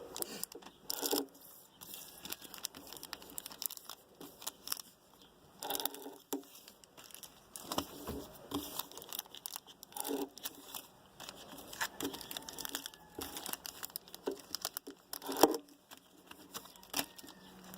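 Football trading-card pack wrappers being torn open and crinkled by hand, in irregular crackling bursts.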